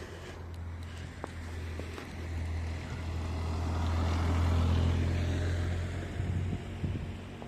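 A motor vehicle passing by on the street: a low engine hum with a rush of noise that swells to its loudest about halfway through, then fades.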